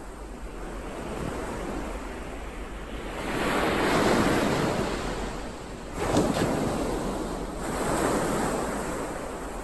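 Ocean waves breaking on the shore in a steady wash, with a swell building to a peak about four seconds in, a sharper crash about six seconds in and another swell near the end.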